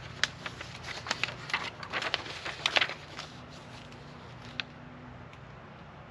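Packaging being handled during an unboxing: a quick run of sharp crinkles and clicks for about three seconds, then a single click, over a low steady hum.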